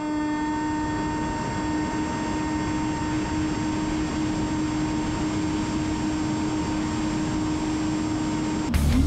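Electric motor and propeller of an AR900 RC flying-wing drone running at steady throttle: a level, steady whine over a rush of air.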